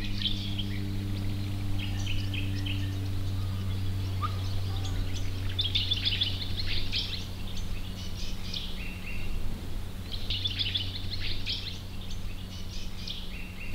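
Several birds chirping and calling in repeated flurries of short, high notes, over a steady low hum.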